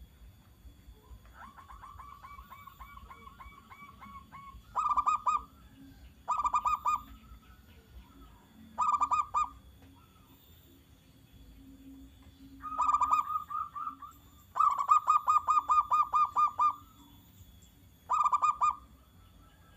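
Zebra dove (perkutut) singing: six loud bursts of rapid, stuttering notes, the longest near the end, after a fainter run of notes in the first few seconds.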